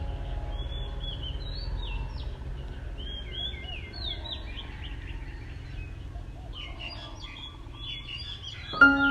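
Small birds chirping in many short, quick calls over a steady low background rumble. Music with bell-like mallet notes starts near the end.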